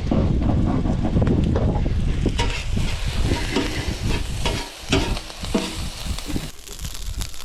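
Shrimp fried rice frying in a pan while a spatula stirs it, with short scrapes and clinks of the utensil against the pan.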